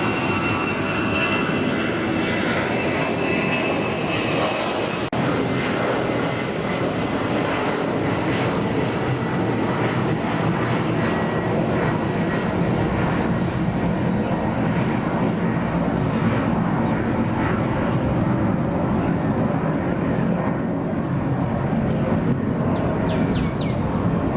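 Boeing 757-200 freighter's twin jet engines at takeoff power, a steady loud roar. A high whine sits on top in the first few seconds and fades, and the sound grows lower and deeper later on.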